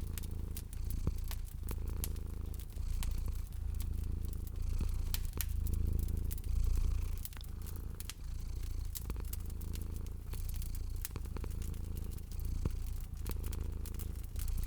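Domestic cat purring in steady swells about once a second, over scattered sharp crackles and pops of a wood fire in a fireplace.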